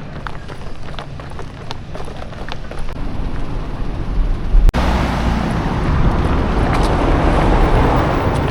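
Outdoor street noise with vehicles: light ticks over a low rumble, then an abrupt break about halfway. After the break a louder, steady rushing noise takes over.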